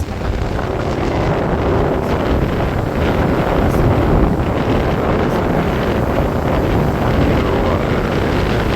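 Steady wind buffeting the microphone, a loud rumbling rush.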